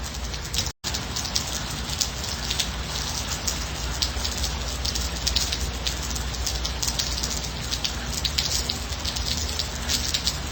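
Steady light rain, dense with small drop patters. The sound drops out completely for a split second just under a second in.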